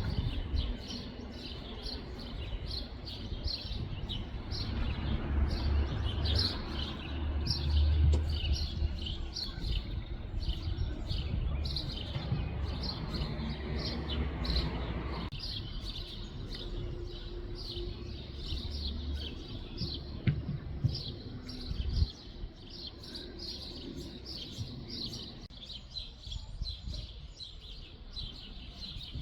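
Songbirds chirping, a dense run of short, high calls repeating and overlapping. A low rumble runs underneath and falls away about halfway through.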